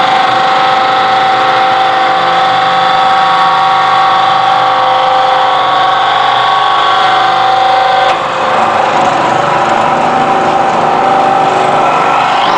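Electro-hydraulic drive of a Y81-130 scrap metal baling press running, a loud steady whine made of several held tones. About eight seconds in the tones shift and the sound briefly dips, as the machine changes stage.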